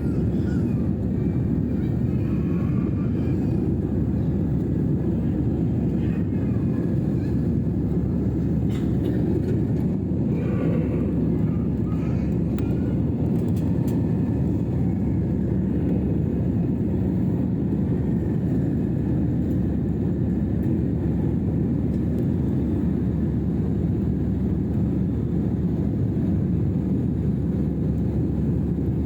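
Steady, even rumble of a jet airliner's engines and airflow heard from inside the passenger cabin.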